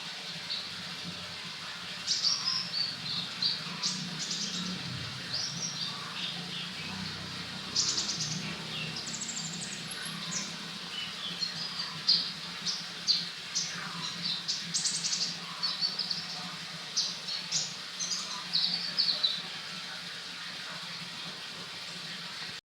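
A small songbird chirping and singing in short, high, quick phrases and trills, with a faint steady low hum underneath. The sound cuts off abruptly near the end.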